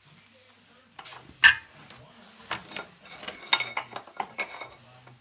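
Metal parts and tools clanking and clinking as they are handled, a string of sharp knocks with the loudest about a second and a half in and a quicker run of clinks in the second half.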